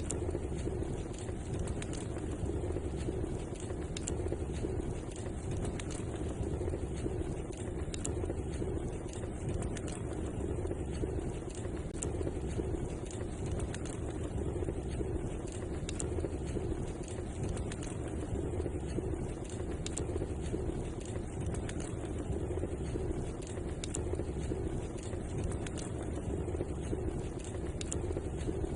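Wood fire in a fireplace crackling, with frequent sharp little pops over a steady low rushing.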